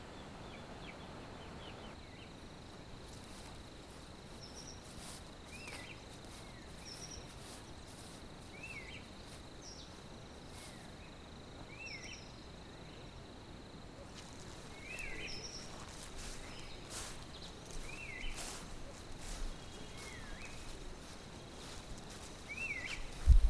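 Quiet rural ambience: a bird repeating a short up-and-down chirp every second or two over a steady high insect drone, with one low thump near the end.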